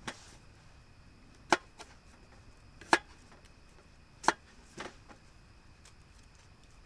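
Sharp chopping strikes, four loud blows about a second and a half apart with a lighter knock just after the last.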